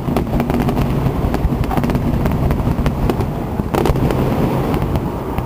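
Fireworks display going off: a dense run of rapid bangs and crackles over a continuous low rumble.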